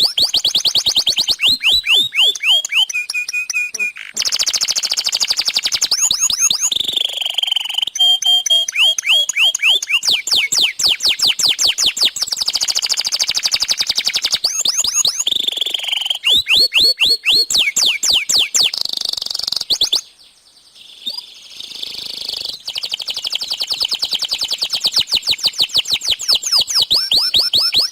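Domestic canary singing a long, continuous song of fast trills and rapidly repeated high notes, with a short break about twenty seconds in.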